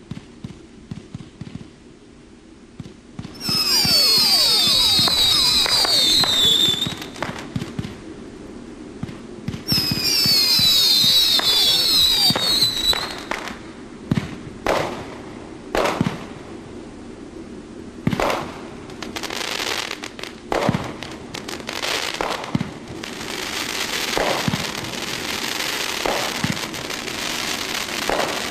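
Consumer fireworks going off: two loud whistles of about three seconds each, their pitch falling in repeated sweeps, then a run of separate sharp bangs, and a dense crackling near the end.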